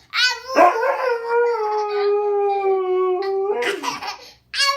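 Dog howling: one long howl held about three seconds and sinking slightly in pitch, with short yelps before and after it.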